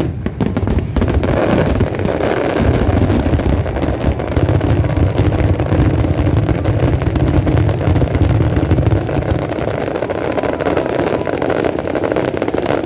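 Dense fireworks barrage: many shells bursting almost at once as a continuous low rumble with crackling over it. The rumble eases about ten seconds in.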